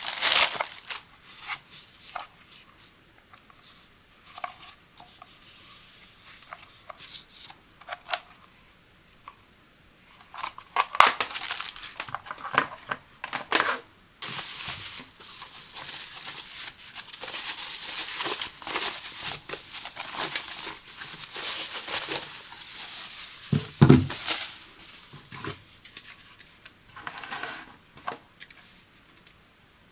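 Unboxing sounds of a kettle's packaging being handled: crinkling and tearing of paper and plastic in irregular bursts, busiest in the second half, with one heavier knock about three-quarters of the way in.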